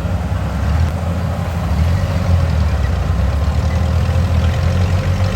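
Kubota combine harvester's diesel engine running steadily with a deep, even hum.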